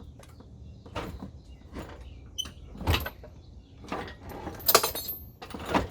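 Metal clanking and scraping as an engine is lowered out of the engine bay on a jack: several separate knocks, with a brief high squeak about three-quarters of the way through.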